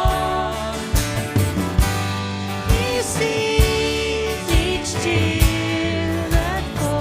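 Worship band playing a song, with singing over acoustic guitar, bass and a steady drum beat.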